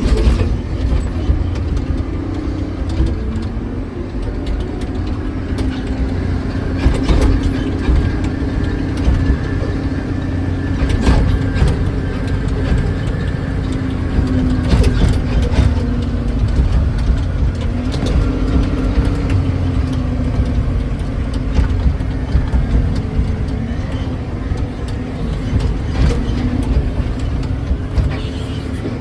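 Diesel engine of a Cat ejector haul truck running steadily, a continuous low drone whose tone drifts slightly up and down, with a few sharp knocks along the way.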